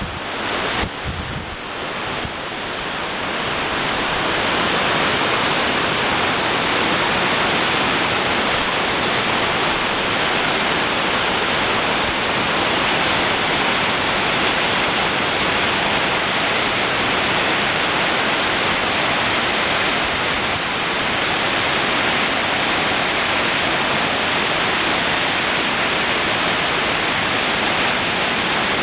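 Sanbon-daki waterfall rushing: a steady wash of falling water that builds over the first few seconds and then holds even.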